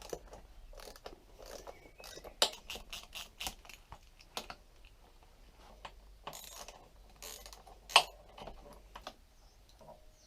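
Scattered small clicks, taps and rattles of tools and metal parts being handled, with one sharper click about eight seconds in.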